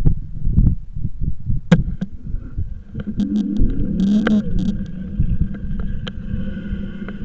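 Rumble and knocks from wind and bumps while riding a bike, with scattered sharp clicks. About three seconds in, a steady mechanical hum with a brief gliding tone joins it, typical of a passing motor vehicle.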